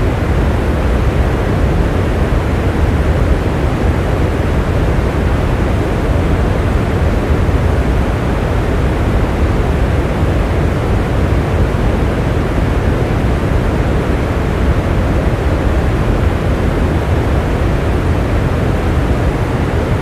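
Steady rain, an even hiss with a deep low rumble that does not change.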